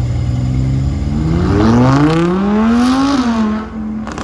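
A car engine running steadily, then revving up in one smooth climb in pitch for about two seconds before the throttle is lifted and it drops back.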